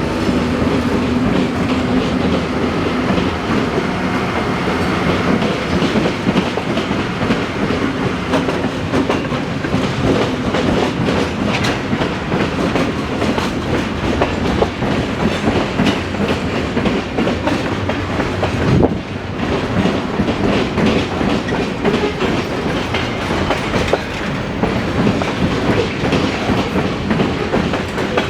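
Train rolling past, loud, its wheels clacking steadily over the rail joints, with a brief lull about two-thirds of the way through.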